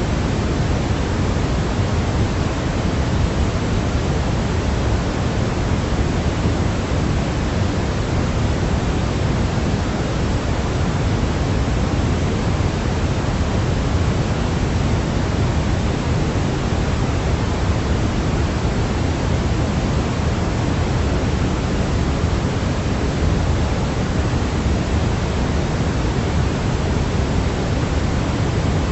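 Steady, unbroken sleep-aid noise for babies, weighted toward the low end like pink noise rather than hissy white noise.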